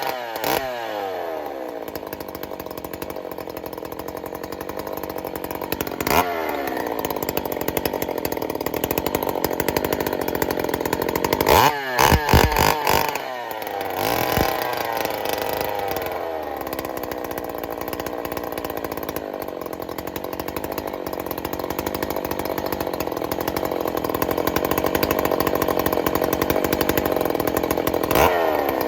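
Rebuilt Jonsered 2186 two-stroke chainsaw running on its first start-up. It mostly idles, with short blips of the throttle about six seconds in, around twelve to thirteen seconds, and near the end, the revs dropping back to idle after each.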